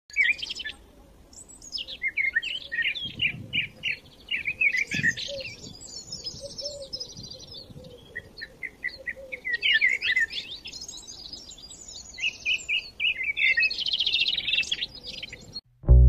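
Several songbirds chirping and trilling in a busy chorus of short, quickly repeated high notes. The birdsong cuts off abruptly just before the end.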